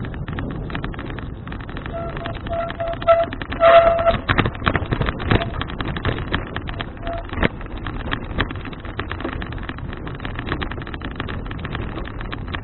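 Wind rushing over an action camera's microphone while a folding bicycle is ridden, with many sharp rattles and knocks from the bike and a louder cluster of knocks a few seconds in. A thin, steady squeal-like tone comes and goes for several seconds in the middle.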